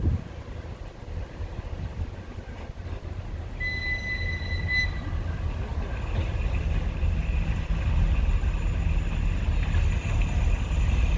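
ChME3 diesel-electric locomotive approaching with a suburban train, its engine rumble growing steadily louder. A single high whistle sounds for about a second, roughly four seconds in.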